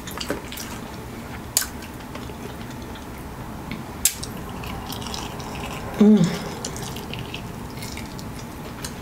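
Close-up chewing of Flamin' Hot Cheetos–coated chicken wings, with scattered wet mouth clicks and smacks. About six seconds in there is a short hummed "mmm".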